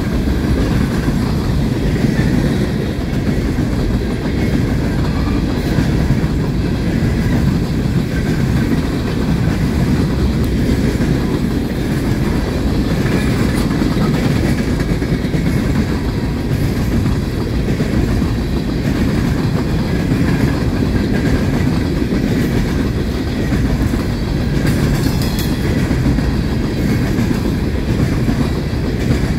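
Norfolk Southern coal train's open-top coal cars rolling past, a steady low rumble of steel wheels on the rails.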